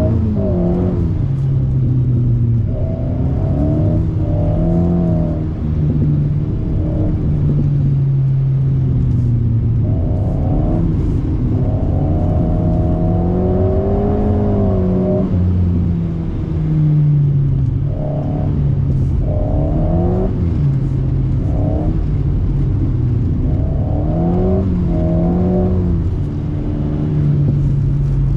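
Alpine A110's 1.8-litre turbocharged four-cylinder engine, through a BDA Racing Track Evo stainless exhaust, revving up and down again and again as the car is driven and drifted around a wet circuit, heard from inside the cabin.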